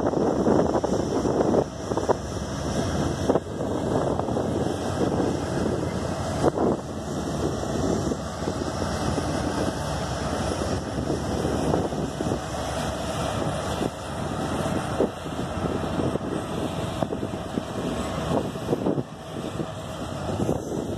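A GE ET44AC (Tier 4) diesel-electric locomotive runs past, followed by freight hopper cars rolling by in a steady rumble. Sharp wheel clacks come now and then.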